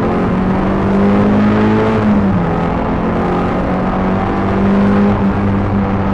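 Peugeot 306 GTi-6's four-cylinder engine pulling under load, its pitch climbing and then dropping sharply at a gear change about two seconds in, before holding fairly steady.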